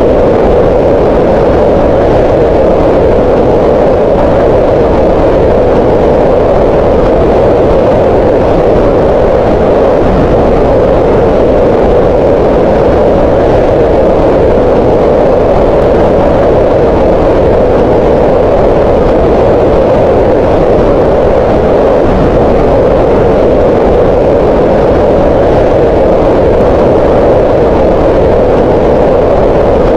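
Green noise: loud, unchanging synthetic noise with most of its energy in the middle of the range, thinner in the deep lows and high hiss.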